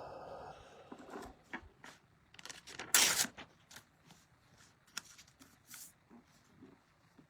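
Tarot cards being shuffled and handled: a run of quick rustles and snaps, the loudest about three seconds in.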